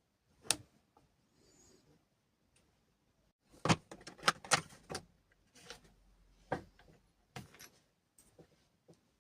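Metal tools and parts being handled on a work surface during a power-cutter repair: a string of sharp knocks and clinks, bunched together about four seconds in.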